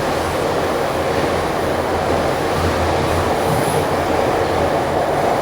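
Ezh3 metro car running at speed through the tunnel, heard from inside the car: a steady, even rumble of wheels on rail and running gear.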